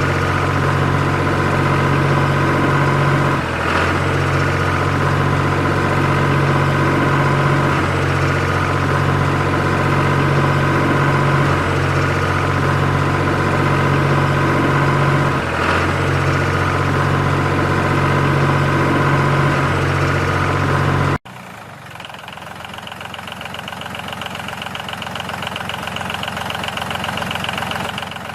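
Tractor engine idling steadily, with a short break about every four seconds as if looped. About three-quarters of the way through it cuts off abruptly, and a quieter, different engine sound takes over and slowly grows louder.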